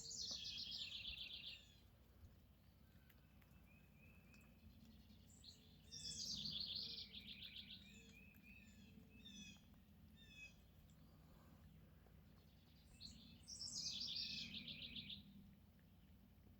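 A songbird singing: a fast trill falling in pitch, about a second and a half to two seconds long, heard three times, with shorter chirps between the songs.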